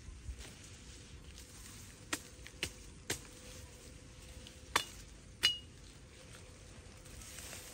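Five sharp knocks of hard objects striking, spread unevenly over about three and a half seconds; the last two are the loudest and ring briefly.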